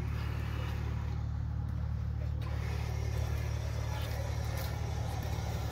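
A car engine running steadily with a low, even hum.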